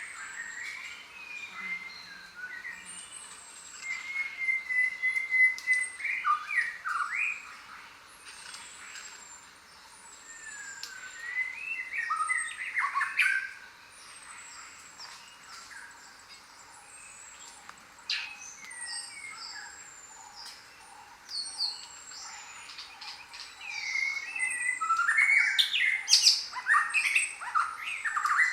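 Chorus of jungle birds calling, many species overlapping: chirps, whistles and squawks, with a high falling whistle repeating every second or two and bursts of busier calling about four seconds in, around twelve seconds, and again near the end.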